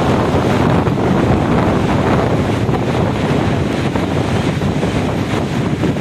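Strong storm wind buffeting the microphone: a loud, steady rush of noise with a deep rumble underneath.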